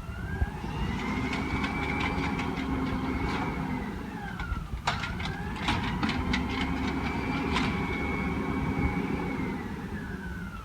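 Garbage truck's diesel engine and hydraulic pump revving up for a packing or lifting cycle, twice. Each time a whine rises, holds steady for a few seconds and falls away, with sharp metallic clanks and clicks in between over a low engine rumble.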